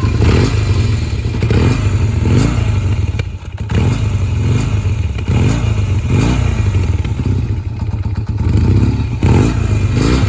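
A 1984 Kawasaki Z440 LTD's air-cooled parallel-twin engine running just after being started, with a faint rise and fall in its note about once a second.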